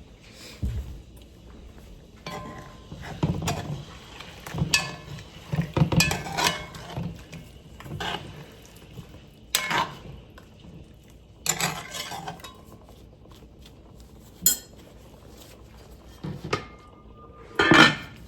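Kitchen clatter: pots, dishes and metal utensils knocking and clinking in an irregular run of about a dozen strikes, the loudest near the end.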